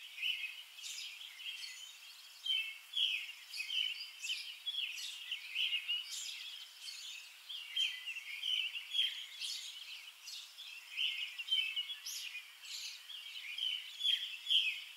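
Songbirds chirping and calling, a busy run of short, quick notes one after another.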